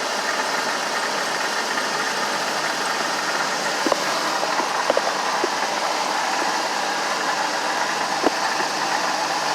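Motorhome engine idling steadily, with a few light clicks about four, five and eight seconds in.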